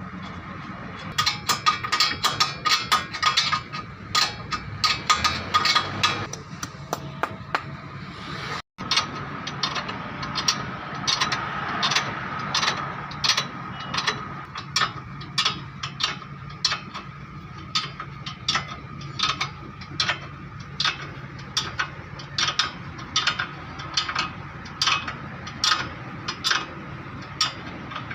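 Hand tools striking and working metal on a car's front suspension, most likely during the lower ball joint job: a fast flurry of sharp metallic knocks for the first few seconds, then a steady stroke about every second.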